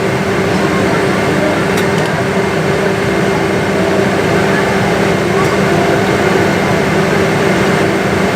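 A steady, loud drone of air and machinery with a constant hum, with indistinct voices murmuring under it.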